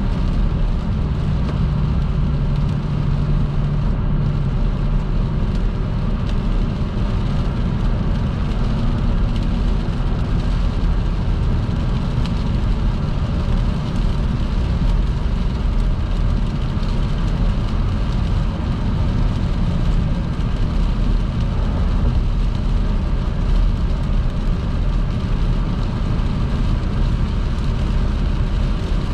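Car driving at motorway speed in heavy rain: steady low road and engine noise with the hiss of tyres on wet pavement.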